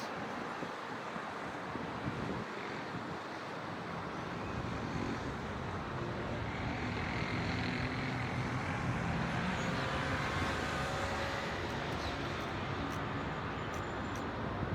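Steady city traffic noise from the streets below, a constant wash of many vehicles, with one vehicle's engine swelling a little louder through the middle.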